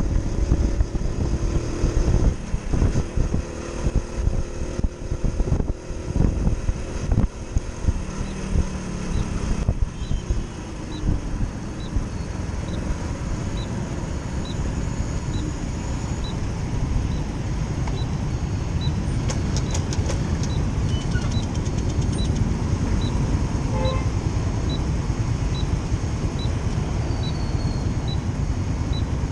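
Motorcycle engine running. For about the first ten seconds it revs unevenly up and down, then it settles into a steadier noise with a faint high tick about once a second.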